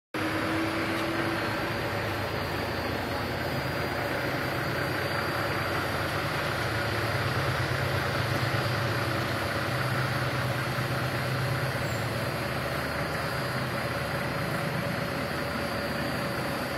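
Steady mechanical hum with a few constant tones, little change throughout.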